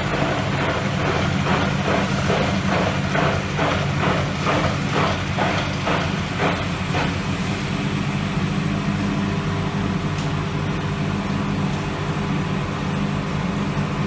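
Hoover Electra 535 Dual Spin washing machine running late in its cycle, most likely its final spin, with a steady motor hum. For the first half a rhythmic swish pulses about twice a second, then fades, leaving the steady hum.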